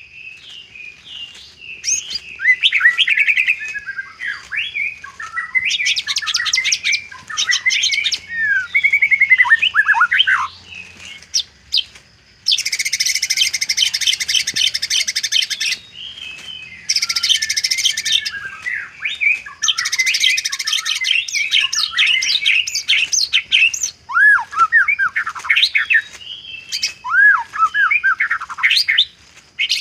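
White-rumped shama (murai batu) singing a varied song of gliding whistled phrases with mimicked filler notes, broken three times by long, rapid rattling trills.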